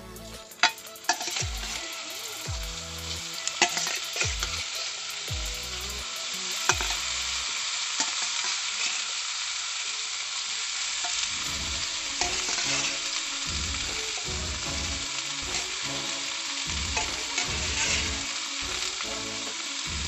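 Halved silkworms sizzling in hot oil in a kadhai as they are tipped in from a steel bowl, with a few sharp knocks in the first seconds. The sizzle grows fuller and steadier about halfway through.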